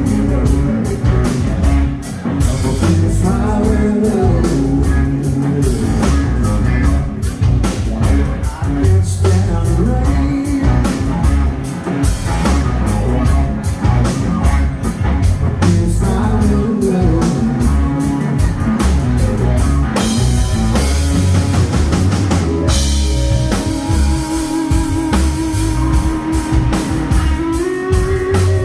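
Live band playing a mostly instrumental passage: a steady drum-kit beat under an electric guitar line, with no lyrics sung.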